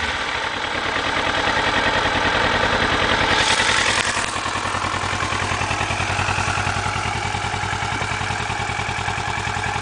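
Kawasaki ER-6n's parallel-twin engine idling steadily through its stock exhaust, with an even, regular pulse.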